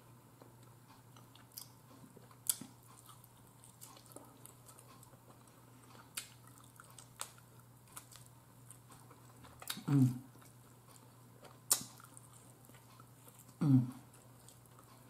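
Close-miked eating of baked turkey neck: quiet chewing with sharp mouth clicks and smacks every few seconds as the meat is bitten and picked off the bone. Two short hums of the voice, falling in pitch, come about ten and fourteen seconds in.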